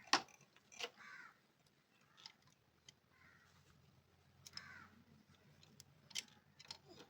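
Scattered sharp metallic clicks and taps of hand tools working on a motorcycle's open valve train and cam chain, with a few short cawing calls from a bird in the background.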